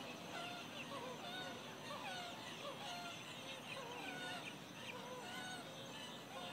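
Many birds calling at once: short whistled calls that rise and fall in pitch, overlapping one another, over a low steady hiss.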